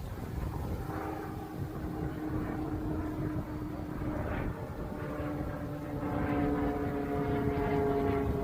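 Steady engine drone that comes in about a second in and grows louder toward the end, its pitch sinking slightly partway through, over a low rumble of wind on the microphone.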